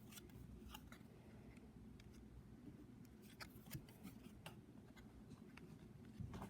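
Near silence with faint, scattered light clicks and rustles of stiff cardstock fortune-telling cards being handled and laid down, over a low room hum.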